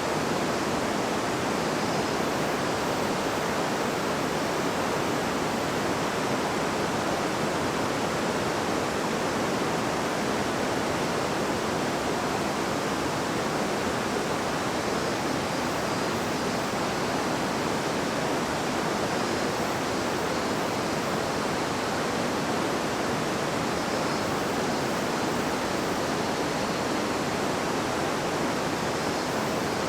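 A river babbling with a steady, even rush of flowing water.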